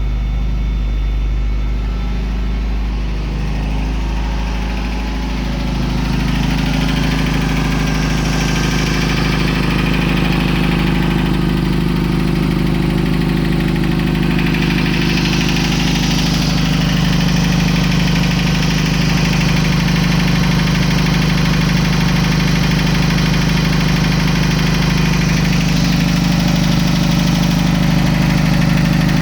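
1991 Toyota pickup truck's engine idling just after being started. The idle wavers for the first few seconds, then settles into a steady run.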